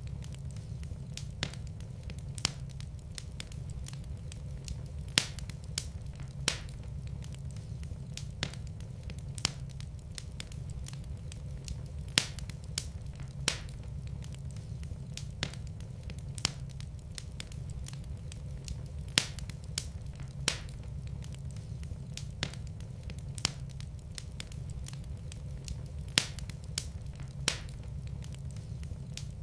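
Wood fire burning in a fireplace, crackling: irregular sharp pops and snaps, roughly one a second, over a steady low rumble of the flames.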